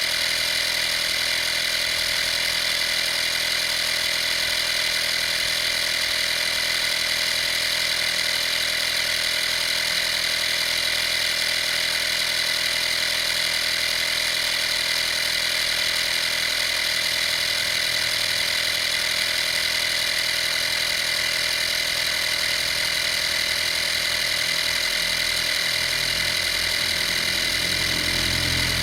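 Vaper 12-volt air compressor running steadily, a constant motor hum and whine with no change in speed. A lower rumble builds up in the last few seconds.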